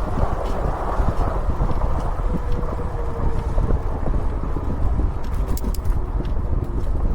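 Wind buffeting the microphone of a moving e-bike: a steady, rough rumble mixed with road noise, with a few faint sharp clicks near the end.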